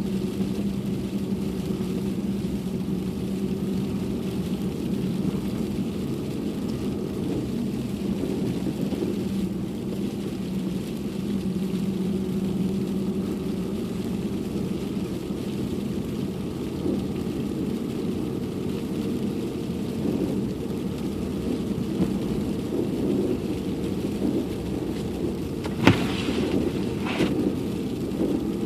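Car driving, heard from inside the cabin: a steady low engine and road hum. Two sharp knocks near the end.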